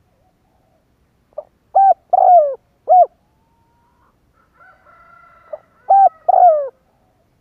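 Spotted dove cooing: two phrases, each a short pickup note followed by a few coos, one of them drawn out and falling in pitch. A fainter, higher call sounds in the gap between the phrases.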